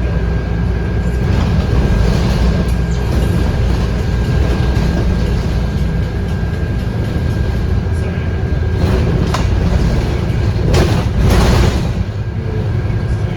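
Scania K230UB city bus under way, its Scania DC9 8.9-litre five-cylinder diesel running with a steady low drone and road noise. A couple of short hisses come near the end.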